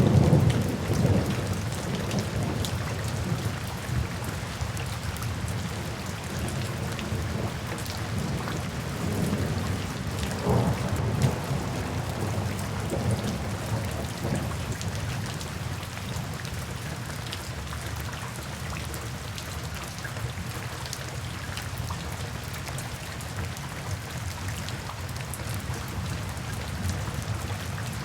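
Steady rainfall with thunder rumbling: a low roll dies away in the first couple of seconds, and another swells and fades about ten seconds in.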